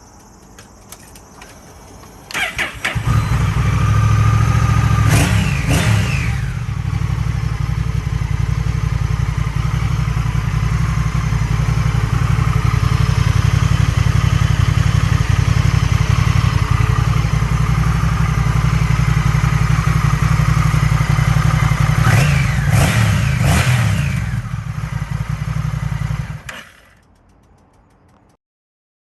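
Honda Rebel 1100's parallel-twin engine breathing through a cheap aftermarket muffler with a baffle insert (inner silencer): started about two seconds in, idling, blipped in short revs shortly after starting and again a little before it is switched off near the end.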